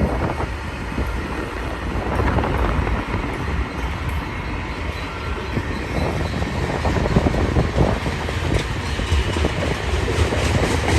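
A BNSF freight train rolling past at close range, its wheels clacking over the rails, with heavy wind on the microphone.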